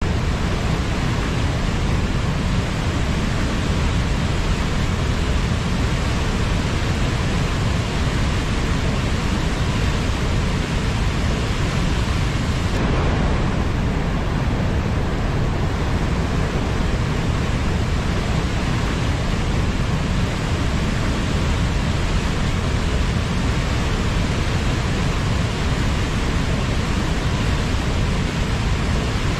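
Waterfall: loud, steady rushing of falling water, heaviest in the low end, with a slight change in the high hiss about halfway through.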